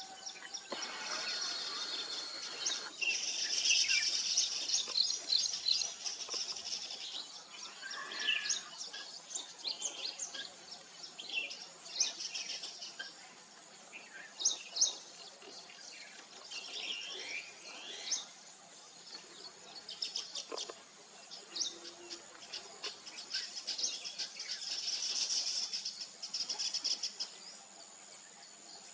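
A colony of weaver birds chattering at their nests, with many quick high chirps overlapping and two bouts of dense, buzzy chatter, the first a few seconds in and the second near the end.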